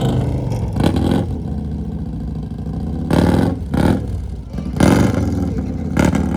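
Motorcycle engine running with several short, loud revs over a steady low hum.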